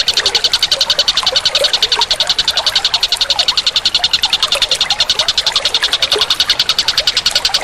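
Animal chorus: a fast, even pulsing call of about twelve pulses a second, with scattered short chirps beneath it.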